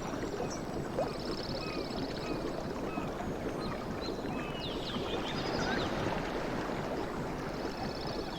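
Sea water washing and lapping in a steady, even rush, with no single large wave breaking. Short high chirps and rapid trills sound now and then over it, near the start, about a second in and again around six seconds.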